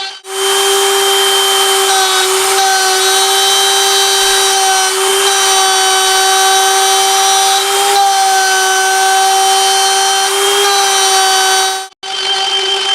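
High-speed spindle of a CNC router milling 6082 aluminium: a steady high whine with a ringing cutting tone whose upper overtones shift every few seconds as the end mill engages the metal. The sound drops out abruptly just after the start and again near the end.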